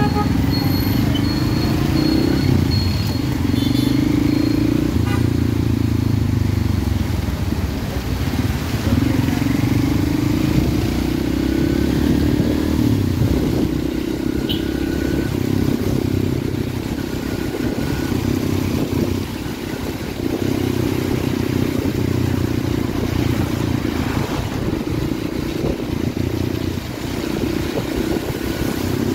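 Motorcycle engine running while being ridden, its pitch rising and falling every few seconds with the throttle, over steady road noise.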